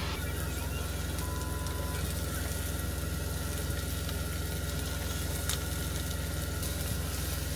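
Semi-truck's diesel engine idling, a steady low hum, with a faint sizzle of food cooking in a pan.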